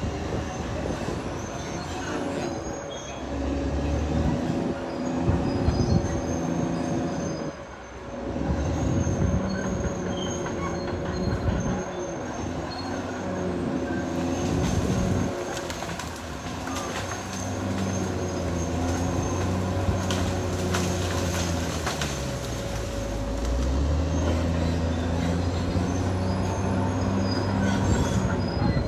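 Caterpillar D6R XL crawler bulldozer at work, its diesel engine rising and falling in pitch as the load changes, with a steady squeal and bursts of metallic clanking from the steel tracks.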